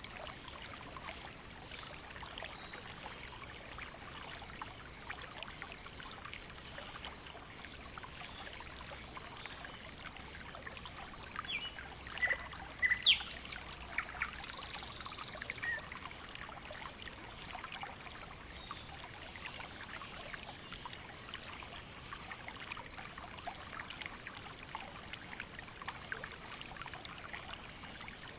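Rural barnyard ambience: a steady, high-pitched chirring of insects, with scattered short bird chirps and a brief louder cluster of chirps about halfway through.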